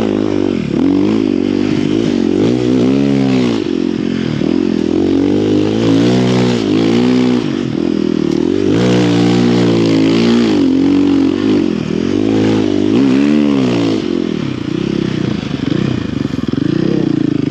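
Snow bike's single-cylinder engine repeatedly revving up and falling back, rising and dropping in pitch every second or two as the rider throttles through deep snow between trees.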